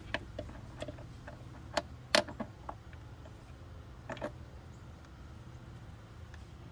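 Scattered sharp clicks and knocks of hand tools on engine parts, the loudest about two seconds in and a pair around four seconds, over a steady low hum.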